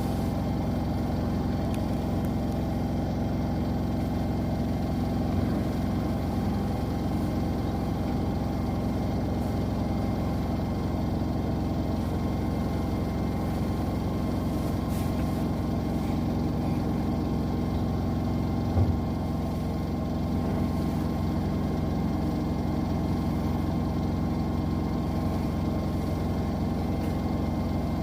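Washing machines, an LG Centum and a Zanussi, spinning: a steady motor and drum hum with several steady tones, and a single brief thump about 19 seconds in.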